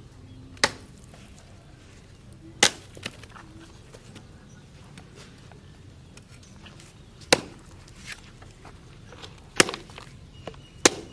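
A long forged knife chopping into wood: five hard, separate strikes at uneven intervals, with a few lighter knocks between them.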